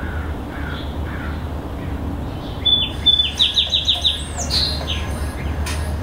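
Small songbird chirping: a few faint chirps, then, nearly three seconds in, a quick run of about six sharp, downward-sliding chirps followed by a single higher note, over a steady low hum.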